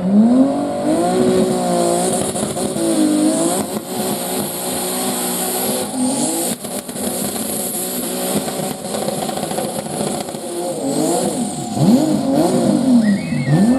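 Heavy diesel pulling-vehicle engine revving up and down several times, its pitch climbing sharply at the start and swooping up and down again near the end.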